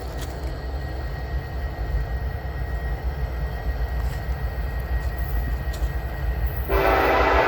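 Norfolk Southern freight train rumbling steadily past at a train meet, low and even. About seven seconds in, a locomotive air horn starts blowing loudly.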